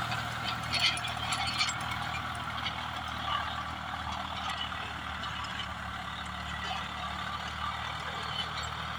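Swaraj 744FE tractor's diesel engine running steadily under load, pulling a rotavator through the soil, with a rattling clatter from the rotavator. Scattered clicks and rattles come in the first two seconds.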